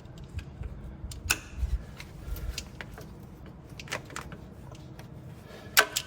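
Vise-grip locking pliers clicking and scraping against steel, a few scattered metallic knocks with the sharpest near the end, as the jaws catch on the edge of the flywheel housing while prying out a truck engine's rear main seal.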